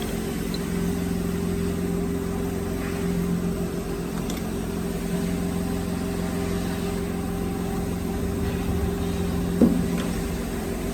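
Steady hum of a woodworking machine's electric motor running, with one sharp knock near the end.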